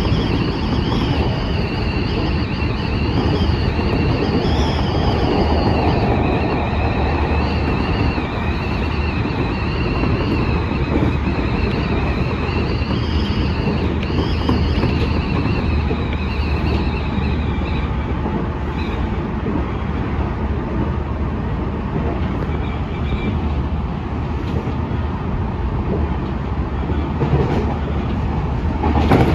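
Running noise of a Senboku Rapid Railway 5000 series electric train heard from inside the front cab: a steady rumble of wheels on rail, with a high, wavering whine that fades out about two-thirds of the way through. At the very end an oncoming train starts to rush past close alongside.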